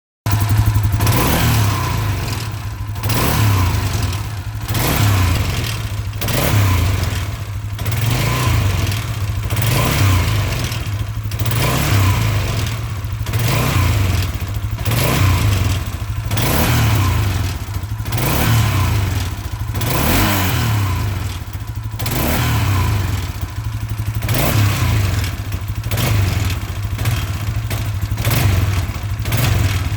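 Engine blipped again and again, revving up and dropping back about every two seconds, with a noise as the throttle is let off that the owner wants explained.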